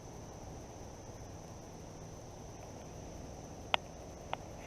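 Insect chorus, a steady high buzz, over a low rushing haze from the fast floodwater of the creek. Two short sharp clicks come near the end, about half a second apart.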